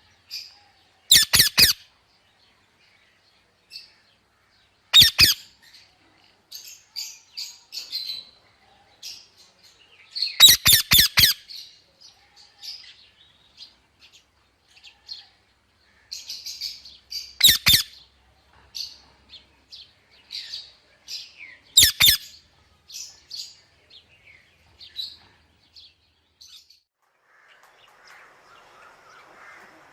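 Birds calling: loud, harsh squawks come in short groups every few seconds, with many small high chirps in between.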